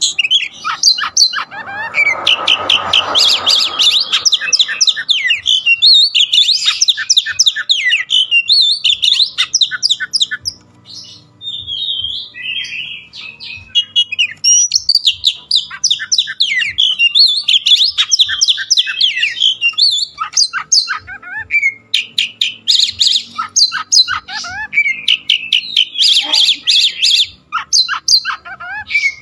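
A pet songbird singing almost without pause: a rapid, varied run of high chirps, trills and whistled notes, briefly breaking off twice. A short burst of noise sits under the song about two seconds in.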